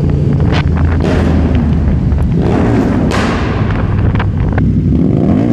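Motorcycle engines running loudly with a heavy low rumble, broken by several sharp pops and thumps, and engine pitch rising and falling a couple of times.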